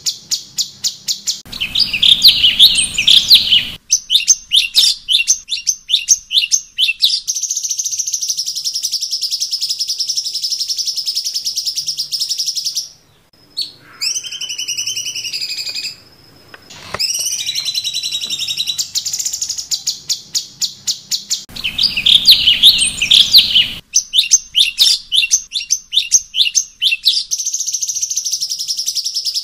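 Cucak cungkok singing in full, open song: runs of rapid, sharp chirps alternating with long, steady, high trills. The song breaks off briefly twice around the middle.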